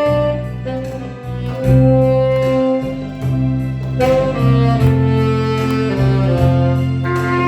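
Saxophone playing a slow melody of long held notes over a backing track with bass and a steady beat.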